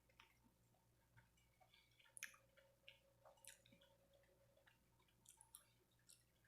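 Near silence with faint scattered clicks and small wet mouth sounds of a person quietly chewing food, the loudest about two seconds in.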